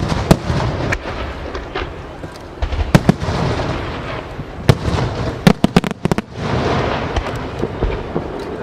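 Aerial firework shells bursting overhead: sharp bangs, with a quick run of several close together about five and a half seconds in, over a continuous crackle and rumble of the display.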